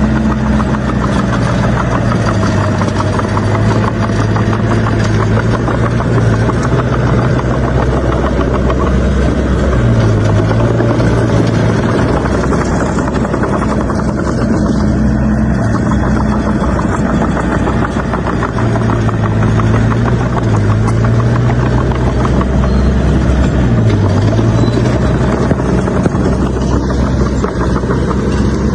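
Bulldozer's diesel engine running hard under load, its pitch dipping briefly several times as it lugs, over a steady metallic clatter.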